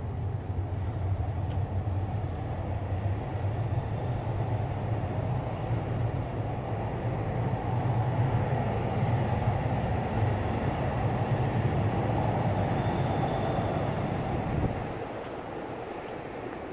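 Train passing: a steady low rumble with a rushing noise above it, which drops away suddenly near the end.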